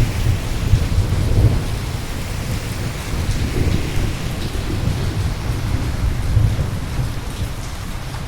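Steady rain with rolling thunder, the low rumble swelling in the first second and a half and again twice before easing off near the end.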